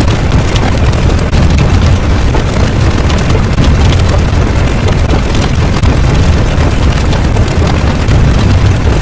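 Continuous loud, deep rumbling noise, a sound effect that keeps on without break or pitch.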